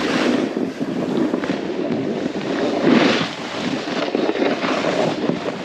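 Snowboard sliding and carving across snow, a rough, crackling scrape that swells as the edge bites, strongest about three seconds in.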